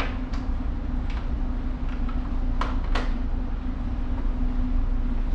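Steady low drone of a tanker's machinery heard on board, a constant hum with a deep rumble under it, broken by a few short sharp clicks, two of them close together near the middle.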